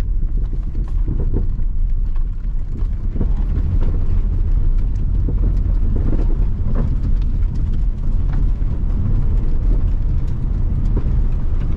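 Front suspension of an eighth-generation Mitsubishi Galant knocking while driving, irregular knocks over steady low road rumble. The knock is the sign of a worn lower control arm ball joint.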